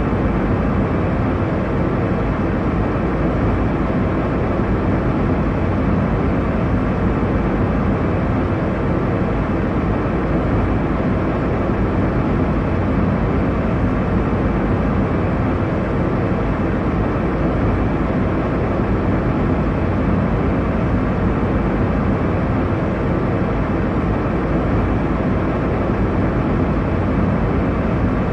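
Steady airliner cabin noise in cruise: an even, low rushing drone of engines and airflow heard from inside the passenger cabin, with no changes.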